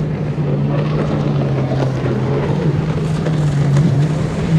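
Engine running steadily: a low, even hum that dips briefly in pitch a few times, over a rough background noise.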